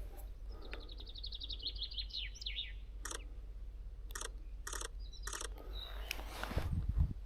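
A small songbird singing one fast trill of rapidly repeated high notes that slides slightly downward and lasts about two seconds. After it come four short scuffing noises about half a second to a second apart.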